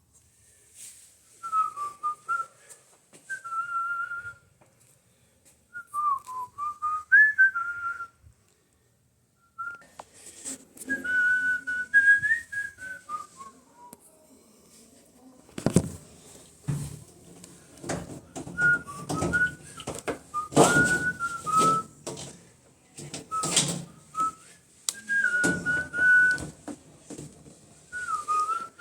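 A person whistling a tune in short, wavering phrases. Loud knocks and clatter of handling join in from about halfway through.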